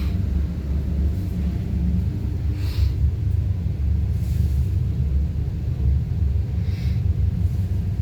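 Walk-in fridge refrigeration unit running after its compressor's start and run capacitors have been replaced: a steady low rumble, with a few brief faint hisses.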